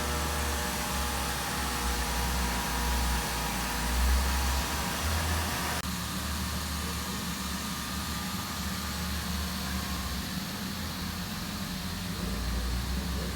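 Steady machinery hum and noise, with a low rumble and several steady tones that mostly drop away about six seconds in.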